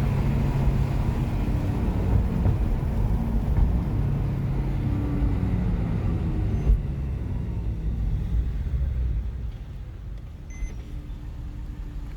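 Porsche 997's flat-six engine and road noise heard from inside the cabin under way, a steady drone that falls away about nine seconds in. A brief high beep sounds near the end.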